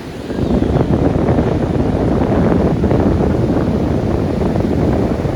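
Wind buffeting the microphone: a loud, low rumble that comes up suddenly about a third of a second in and stays.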